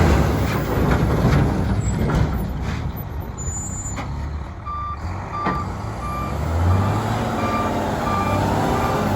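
Six-cylinder Volvo diesel engine of a Volvo A25F articulated dump truck running, with its reverse alarm starting to beep about five seconds in, about twice a second, as the truck backs up. A few sharp clicks come in the first half.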